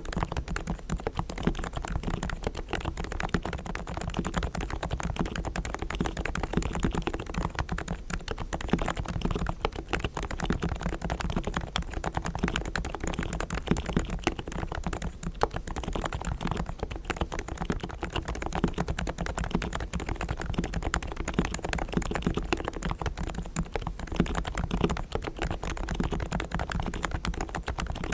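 Continuous fast typing on a Realforce R3 tenkeyless keyboard with 45 g low-noise, equal-weight Topre electrostatic capacitive switches. The springs and sliders are fully lubed with Krytox, the stabilizers are tuned, and the case is sound-dampened, so each keystroke is a soft, low-noise thock.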